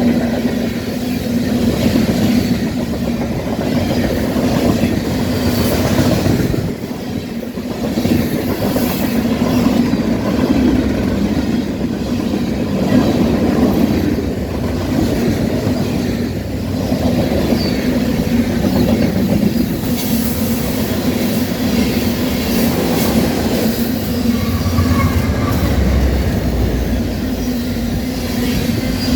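A train rolling past, its railcar wheels running over the rails in a steady, loud rumble with a brief dip about seven seconds in.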